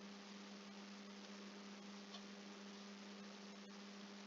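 Near silence: a faint steady electrical hum under low hiss, with one faint click near the end.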